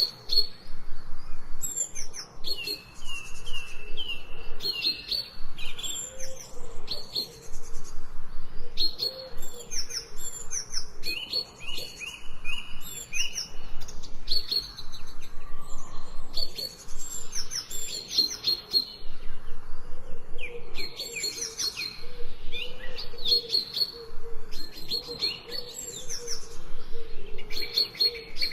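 Several songbirds chirping and singing over one another, with quick runs of repeated notes and short trills.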